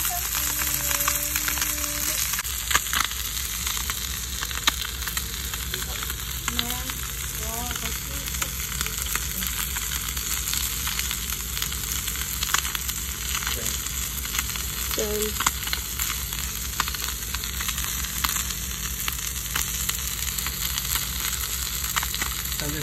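Food frying in a hot pan, a steady sizzle with scattered pops.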